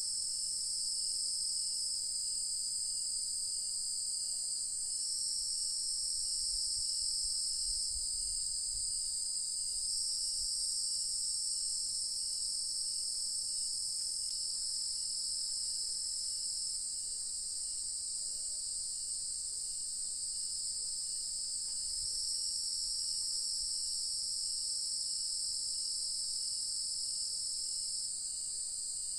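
Steady, high-pitched chorus of insects such as crickets, shifting slightly in level every few seconds, with a faint regular chirp about two to three times a second beneath it.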